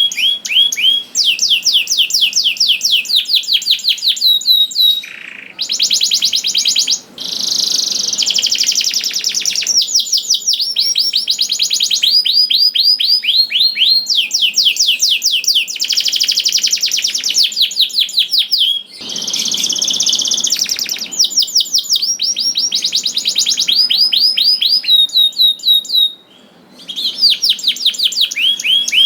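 Domestic canary singing a long song of rapid trills: fast runs of repeated chirping notes that switch to a new phrase every second or two, with a few short breaks.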